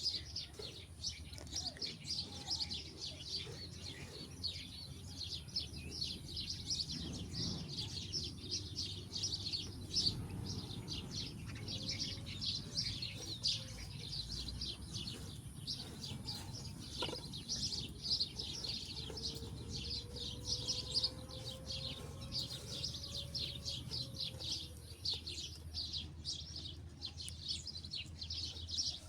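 A dense chorus of small birds chirping continuously: many quick, high chirps overlapping without a break, over a low steady background rumble.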